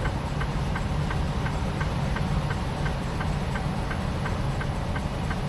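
Semi-truck running at low speed, heard inside the cab: a steady low engine and road drone with a light, even ticking about three times a second.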